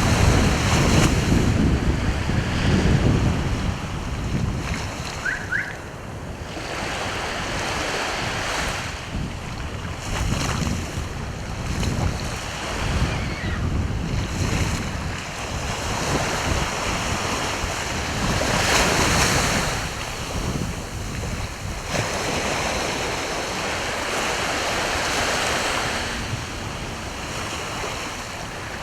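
Sea waves breaking and washing onto the shore in repeated surges every few seconds. Wind buffets the microphone, heaviest in the first few seconds.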